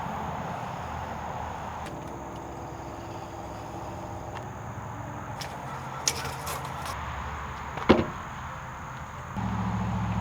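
Steady background hiss with a low hum, broken by a few sharp knocks, one clearly louder about eight seconds in. A low motor hum starts up near the end.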